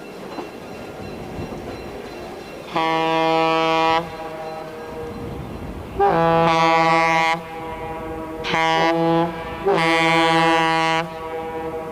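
Diesel locomotive air horn sounding four blasts, long, long, short, long, the standard grade-crossing signal, over the running train's rumble. The horn sounds several tones at once.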